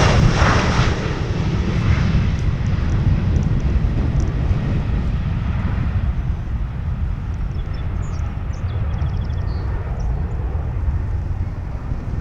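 Low rumble of an airliner's jet engines, easing slowly in level.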